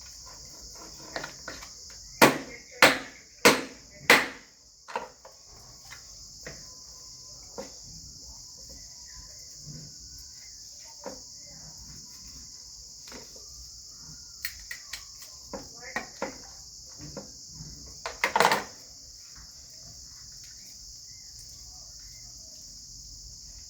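Steady high chirring of crickets, with sharp knocks over it: four loud ones about half a second apart near the start, scattered lighter ones, and another loud cluster about three quarters of the way through.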